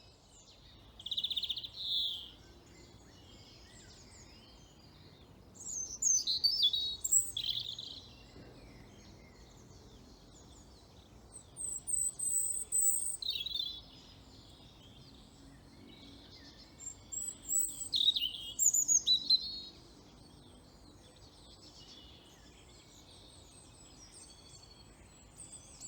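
Woodland birdsong: four bursts of high, quick song phrases a few seconds apart, over a faint low background hum.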